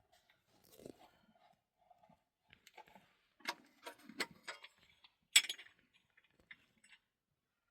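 Irregular sharp clicks and knocks of small hard objects being handled: a quick run of five or so about three and a half seconds in, the loudest single click just after five seconds, then fainter ticks.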